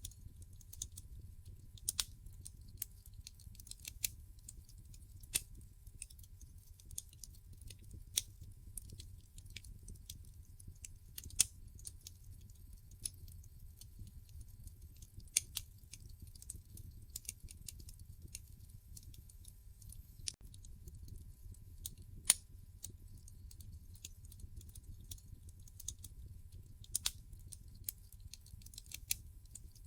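Wood fire crackling in a fireplace: irregular sharp pops and snaps over a low steady rumble, with a few louder pops scattered through.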